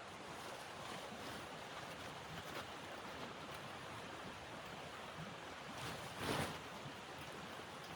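Steady wind noise of a snowstorm, with a brief louder rush about six seconds in.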